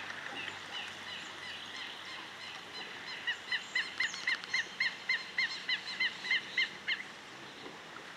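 A bird calling a fast run of short, sharp, repeated notes, about four a second, faint at first, then loud and regular through the middle before stopping, over a steady outdoor hiss.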